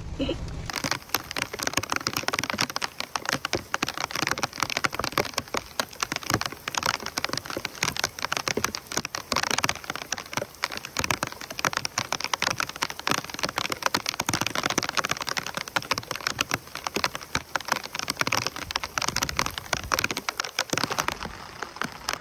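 Heavy rain falling: a dense, steady patter of countless drops striking a surface.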